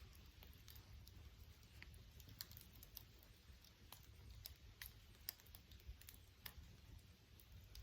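Campfire burning wood, crackling faintly with scattered irregular pops over a low steady rumble.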